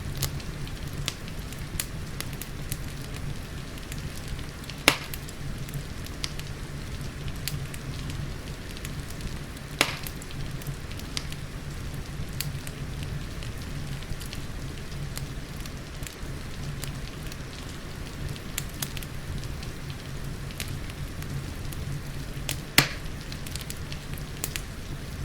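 Wood fire crackling in a fireplace, a steady low rumble under many small snapping clicks, with three sharp louder pops: one about five seconds in, one about ten seconds in and one near the end. Rain falls softly underneath.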